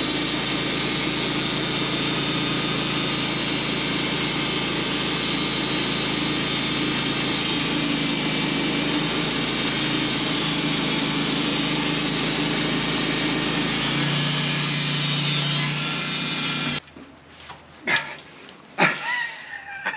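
Sawmill running and sawing through a large hickory log, a loud, steady mix of motor hum and cutting noise. It cuts off suddenly near the end, followed by a couple of knocks.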